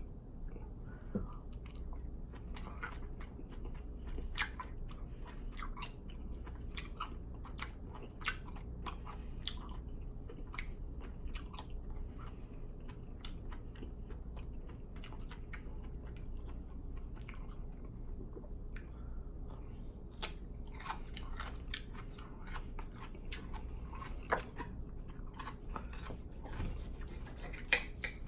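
A person chewing and eating food close to the microphone, with many short mouth clicks and smacks scattered throughout.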